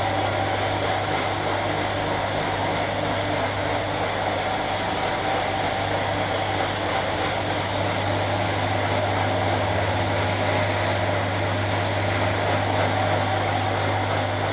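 Paint-shop air equipment running: a steady motor hum under a loud hiss, typical of a compressor feeding a spray gun. A sharper high hiss switches on and off several times in the second half, as the spray gun is triggered in bursts.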